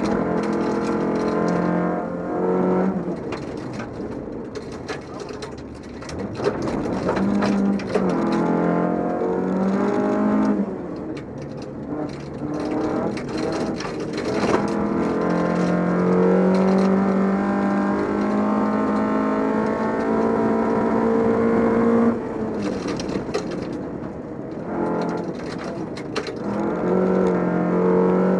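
Volvo 242 rally car's engine at full effort on a gravel stage, heard from inside the car. The revs climb, hold a steady high note and drop again several times with lifts and gear changes, including one long steady pull past the middle.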